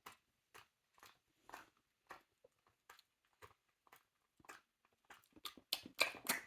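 A Cavalier King Charles spaniel chewing a piece of banana: short wet smacks and clicks of the mouth about twice a second, coming faster and louder near the end.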